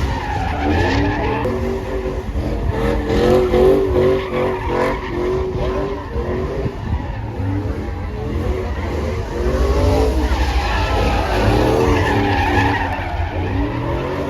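Truck engine revving hard with tyres squealing and skidding, the pitch wavering up and down repeatedly, as in a burnout or drift.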